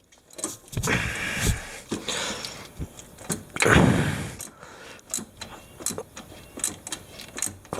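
Wrench work on the ATV's bolts as they are being snugged down: scraping and rattling of the tool on metal, a louder clunk about four seconds in, then a string of short, light clicks.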